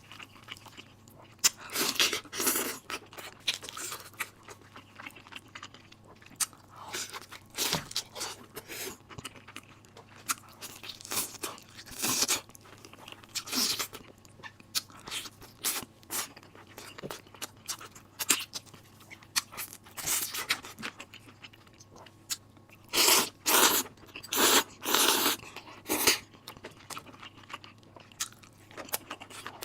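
Close-miked chewing and crunching of food in the mouth, in irregular bites, with a run of louder crunches near the end.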